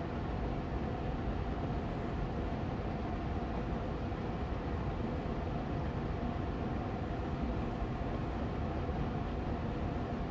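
Austin Air Allergy Machine air purifier fan running on medium speed: a steady, even hum of rushing air, strongest in the low range, with a faint steady tone.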